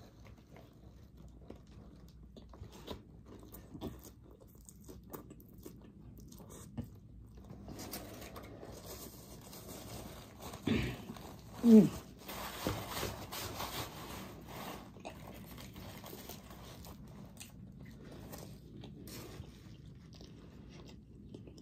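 Close-miked biting and chewing of a fried chicken sandwich, with small wet mouth clicks throughout. Around the middle comes a stretch of paper napkin rustling against the face, then a short vocal sound that falls in pitch, the loudest moment.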